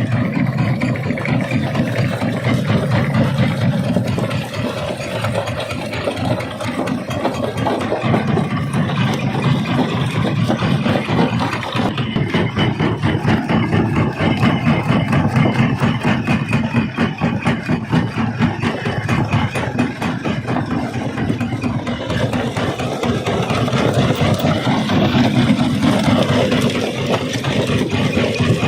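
Quarry primary rock crusher running: a steady heavy mechanical rumble with a constant dense clatter of rock being broken.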